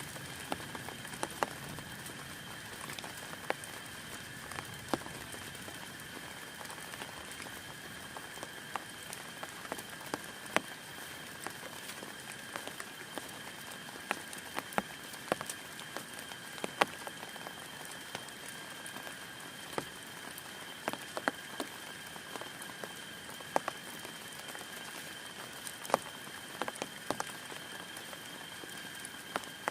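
Rain falling on a tent: a steady hiss broken by irregular, sharper taps of heavy drops. A faint steady high-pitched tone runs underneath.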